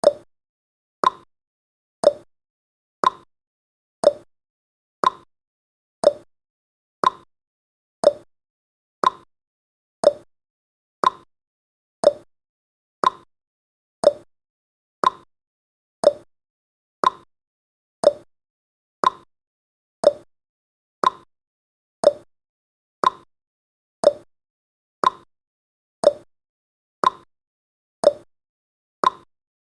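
Countdown timer's ticking sound effect: one short, sharp tick every second, steady and even.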